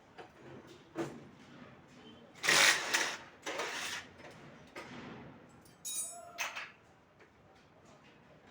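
Hand tools and metal engine parts clinking and scraping during a Mahindra Supro engine teardown. The loudest is a rattling scrape about two and a half seconds in, followed by another about a second later and a brief ring near six seconds.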